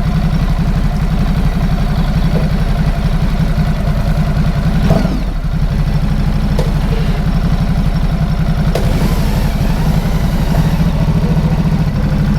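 Motorcycle engine idling steadily at a fuel pump, with a brief knock about five seconds in.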